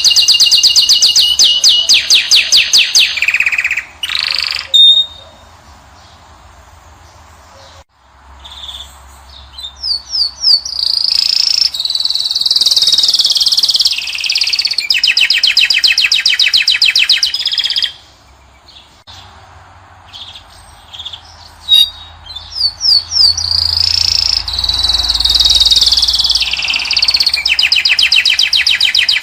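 Finch song: loud phrases of fast, rapidly repeated trill notes mixed with whistled notes, in three bouts broken by two pauses of a few seconds.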